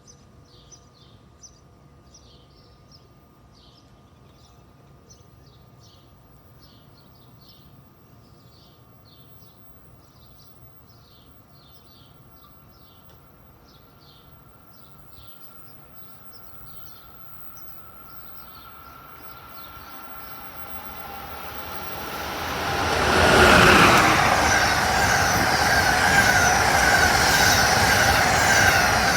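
A train approaching and passing at speed: a low rumble builds over several seconds, then becomes a loud, steady rush of wheels on rail, loudest about twenty-three seconds in. Before it arrives, faint high chirps repeat over a quiet background.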